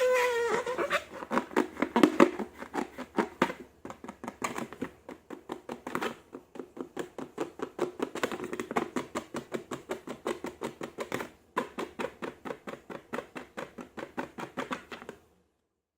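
Slime being squeezed and kneaded by hand, giving a fast, even run of wet, sticky clicks and pops, about five or six a second, that stops abruptly near the end.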